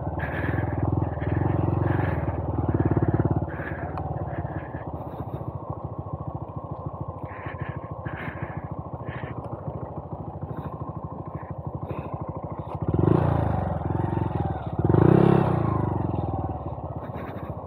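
Honda Monkey 125's air-cooled single-cylinder engine running at low speed on a dirt trail. The throttle opens up briefly near the start and twice more near the end, the engine note rising each time.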